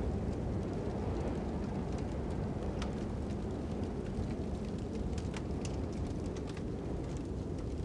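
Crackling wood fire with sharp pops scattered irregularly over a steady, low rushing of wind.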